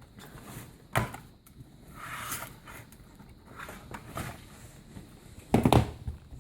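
Handling knocks and rustling: a sharp click about a second in, a soft rustle, and a heavier thump near the end.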